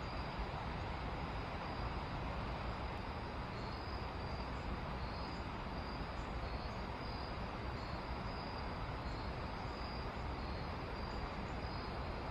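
Steady rush of river water flowing below a dam, with faint short high chirps repeating about once a second.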